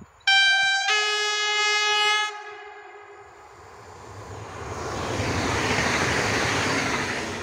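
Electric passenger train's horn sounding two notes, a short high note then a longer, lower one, followed by the train's running noise swelling as it approaches and rushes past, then fading.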